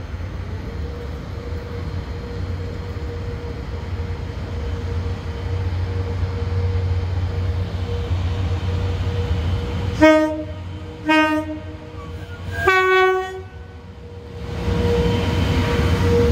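Network Rail diesel rail grinding train approaching, its low engine rumble slowly growing with a thin steady whine above it. About ten seconds in it sounds its horn three times: two short blasts on one note, then a third on a higher note. Near the end the noise swells as the train comes alongside.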